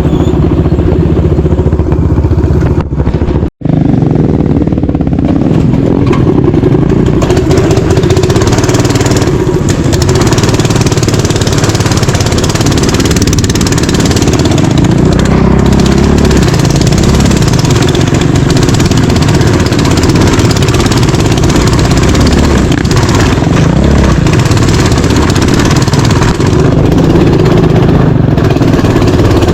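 Small mini bike engine running hard while riding, its revs rising and falling, with a rushing noise over it. The sound cuts out for an instant about three and a half seconds in.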